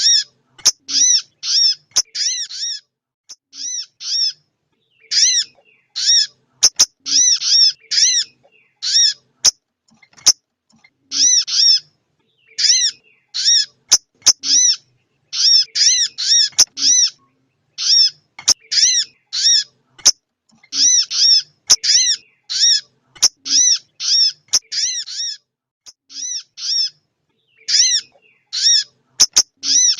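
Female sogon bird calling: short, high, downward-arched notes repeated rapidly in groups of two to five with brief pauses between groups, plus occasional sharp clicks. This is the call used to excite male sogon birds.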